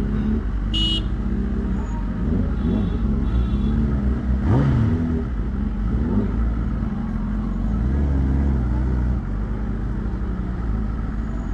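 Superbike engine running at low speed in slow traffic, with a brief rev up and back down a little under halfway through. A short high beep, like a horn, comes about a second in.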